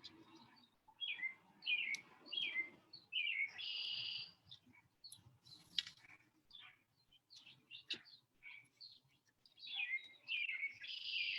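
Songbirds chirping: many short, repeated down-slurred notes, with a longer buzzy trill about three seconds in and again near the end. A single sharp click comes about halfway through.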